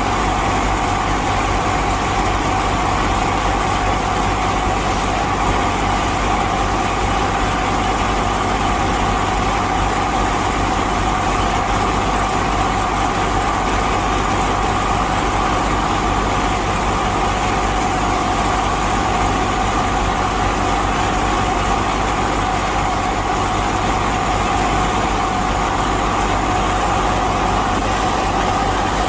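A small motor running steadily with an unchanging whine.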